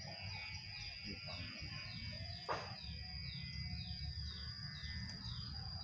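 Outdoor ambience: a bird repeating a short falling chirp about twice a second over a steady high-pitched whine and a low rumble. A brief sharp sound comes about two and a half seconds in.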